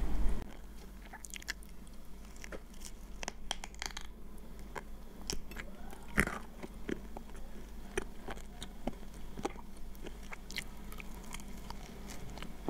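Close-miked chewing and crunching of crispy fried chicken drumstick: a run of short, sharp crackles and mouth clicks, one louder crunch about six seconds in.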